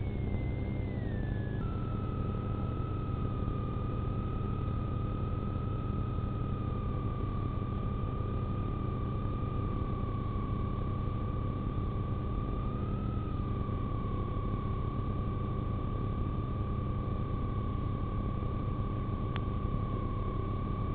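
Steady heavy rumble of wind and the running vehicle heard from a police car's dashcam as it drives into a tornado, with a steady high whistling tone starting about two seconds in. A single faint click comes near the end.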